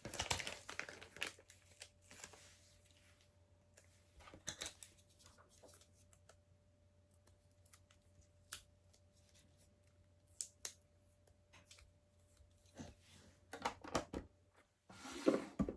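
Scattered light clicks and rustles of plastic LEGO bricks being handled and pressed together, a flurry at the start and then single sharp ticks every few seconds with quiet gaps between.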